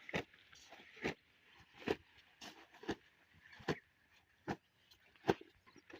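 A series of short, sharp knocks, about one a second, the loudest near the end, over a faint background hiss.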